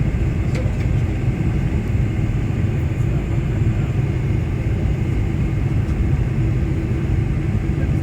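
Boeing 747-400 airliner giving a steady, even low rumble of engine and airflow noise, with no change in level or pitch.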